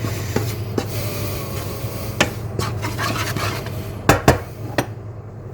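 A utensil stirring and scraping chicken around in a pan, with light clinks and two sharp knocks against the pan about four seconds in.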